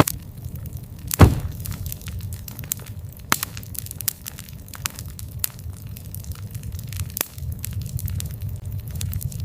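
Campfire burning: a steady low rumble of flames with frequent sharp crackles and pops of burning wood, the loudest pops right at the start and a little over a second in.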